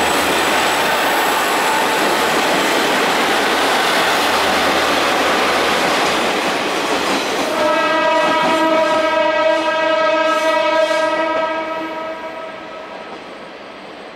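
Train pulling out and running past with loud rolling noise. About seven seconds in, a long, steady horn blast starts and sounds for about five seconds, then fades as the train draws away.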